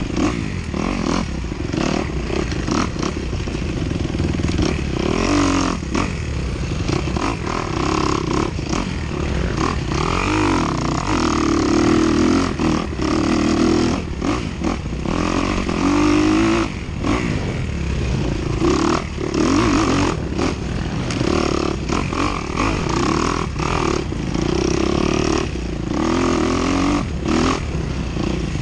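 Dirt bike engine ridden hard off-road, revving up and dropping back again and again every second or two, with frequent sharp rattles and knocks.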